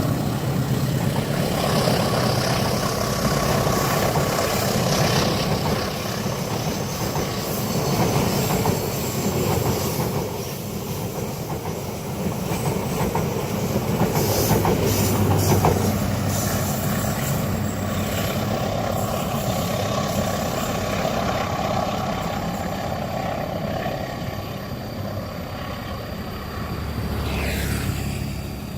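A train running past on the rails, its wheels clattering steadily over the track, a little quieter near the end.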